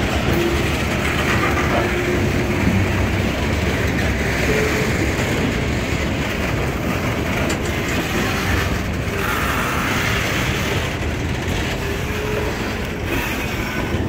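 Open-top freight cars of a BNSF train rolling past at close range: the steady noise of steel wheels running over the rails.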